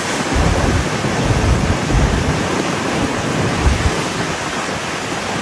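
Loud, steady rushing noise with irregular low rumbling gusts: wind buffeting the microphone.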